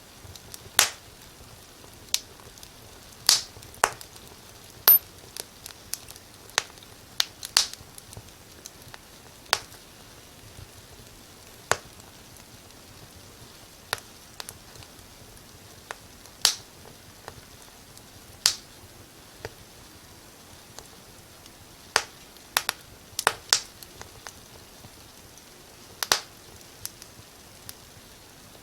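Wood fire burning in a fireplace: irregular sharp crackles and pops over a faint steady hiss, sometimes several in quick succession.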